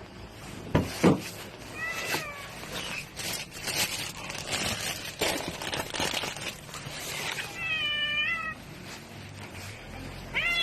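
Domestic cat meowing twice: a short meow about two seconds in and a longer one near eight seconds, with a couple of sharp knocks and some rustling around it.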